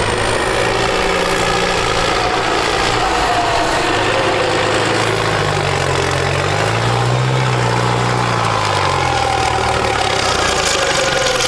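Tractor diesel engine running, revving up about six seconds in and easing back down a couple of seconds later, over a constant loud rushing noise.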